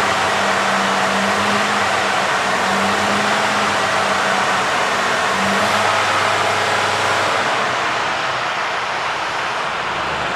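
Mercedes-Benz Actros 2543 truck's straight-six diesel engine running after start-up, its pitch dropping about halfway through as the revs fall back.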